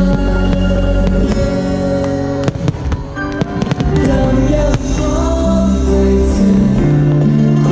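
Fireworks show: sharp firework bangs and crackles, a dense cluster of them about two and a half seconds in, over loud music with singing.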